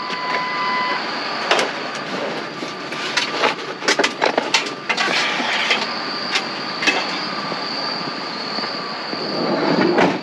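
Scrap metal, including an aluminum screen frame, clanking and scraping as it is handled, heard as a run of sharp knocks with a brief metallic squeal. Insects buzz steadily throughout.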